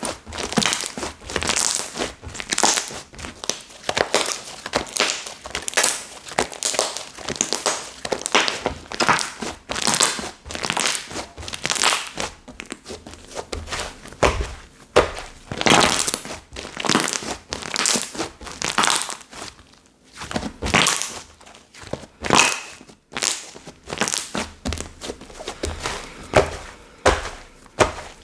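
Hands pressing, folding and stretching slime, making irregular squishing crackles, several strokes a second.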